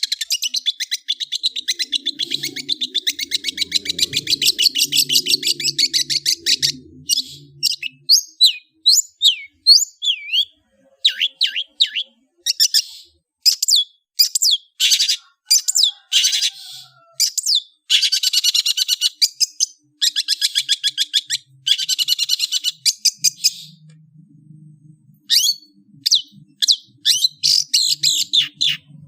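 Long-tailed shrike (cendet) singing: a fast, rattling trill for the first several seconds, then a run of sharp separate notes and short chattering phrases broken by brief pauses.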